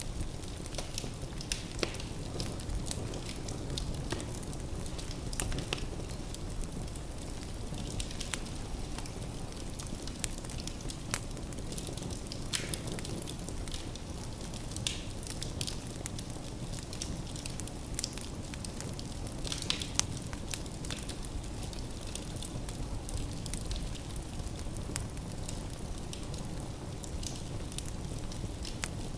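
Firewood burning in a fireplace: a steady low rumble of flames with irregular sharp crackles and pops from the logs.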